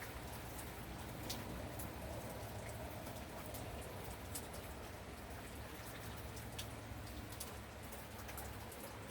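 Steady rain falling, with scattered sharp drips and clicks over a low, even rumble.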